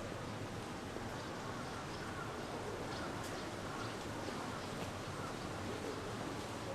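Steady outdoor background noise with faint bird calls.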